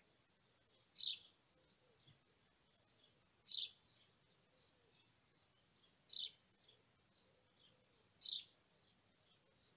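A bird calling: a short, high chirp repeated four times, about every two to three seconds, with fainter twittering between the calls.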